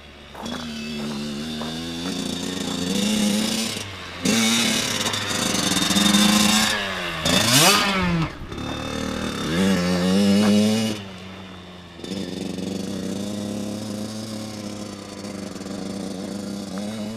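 Kawasaki KX85 two-stroke dirt bike engine being ridden around, revving up and easing off over and over. Its pitch dips sharply and climbs back about halfway through, where it is loudest as it passes close by.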